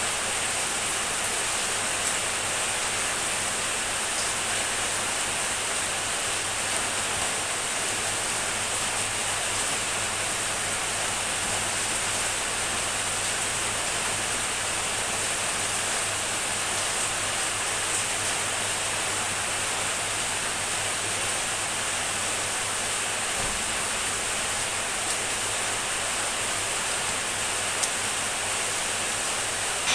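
Heavy rain falling steadily as an even, unbroken hiss, with a few faint drop taps.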